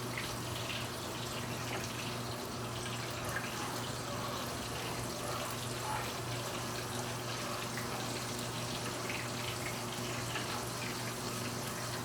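Battered turkey pieces sizzling in hot frying oil, a steady hiss with scattered small pops and crackles, over a steady low hum.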